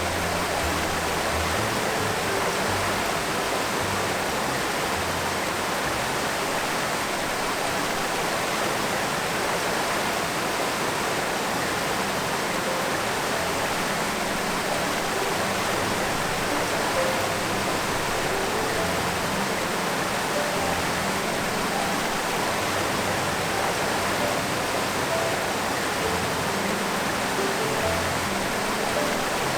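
Steady rushing water, with soft background music under it.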